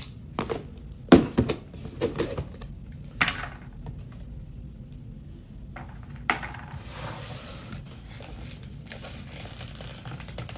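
Packaging of a box of cornstarch chunks being handled and opened: a quick run of sharp crinkles and clicks in the first few seconds, a single snap about six seconds in, then a soft rustle.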